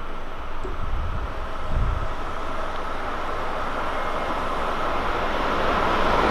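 A train approaching on the line, its rumble and rail noise growing steadily louder. There is a brief low thump about two seconds in.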